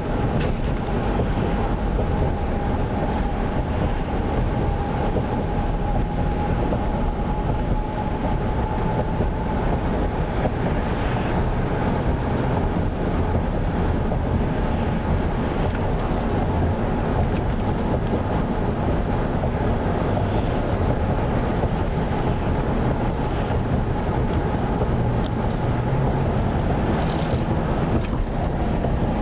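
A car driving at road speed: a steady rumble of tyres, engine and wind, with a faint steady whine through the first third.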